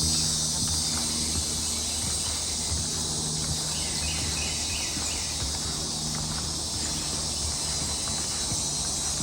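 Steady, dense chorus of swamp insects singing, with a short run of about five quick repeated calls about four seconds in.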